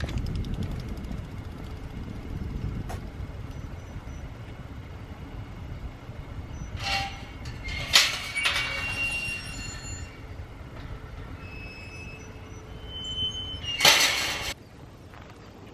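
Old BSA pub bicycle being ridden: a steady low rumble of tyres and wind, broken by a few short metallic rattles and squeals, the loudest near the end, after which the rumble drops away suddenly.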